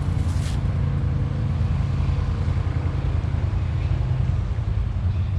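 ATV engine idling steadily with a low, even rumble.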